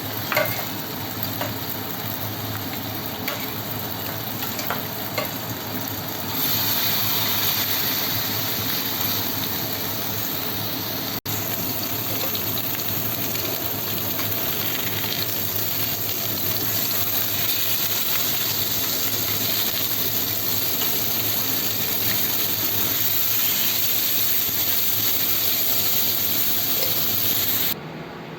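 Food sizzling in a hot pan, with light clicks of a utensil stirring it. The sizzle grows louder and brighter about six seconds in, and cuts off abruptly near the end.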